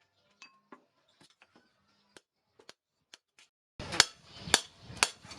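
Faint scattered clicks and taps, then, near the end, a hammer starts striking steel on an anvil, about two clinking blows a second, as a knife blade is forged.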